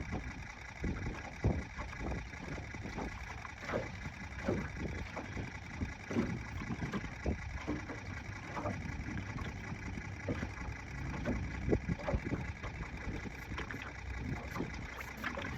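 Wind rumbling on the microphone over a steady low hum, with small waves slapping irregularly against the aluminum jon boat's hull.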